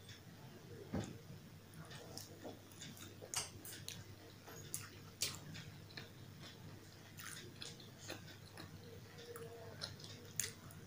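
Close-miked, wet eating sounds of puri with potato curry (aloo ki sabji): chewing and soft mouth clicks at irregular intervals, mixed with fingers tearing puri and squishing it through the curry. A few sharper clicks stand out among the quieter ones.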